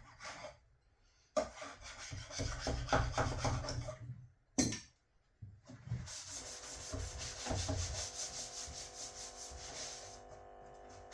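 Rhythmic scrubbing and scraping strokes on the plastic walls of a PVC beehive as it is cleaned, in two bursts with short pauses and a click between them. From about six seconds in, a steadier hiss takes over.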